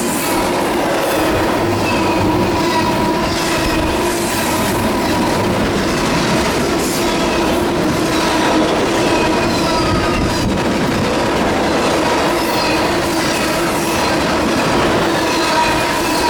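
Norfolk Southern intermodal freight train passing at speed: a steady rush and clickety-clack of the cars' wheels over the rails, with repeated short falling wheel squeals. Under it runs a low buffeting of the wind the passing train stirs up.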